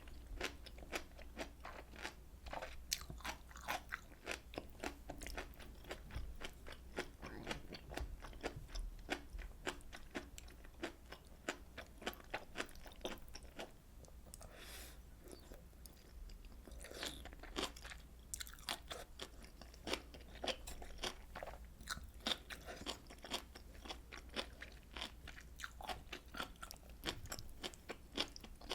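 Close-miked chewing and mouth sounds of someone eating Korean fish cake soup (eomuk-tang), a dense, uneven run of small clicks with a couple of brief breathy smears around the middle.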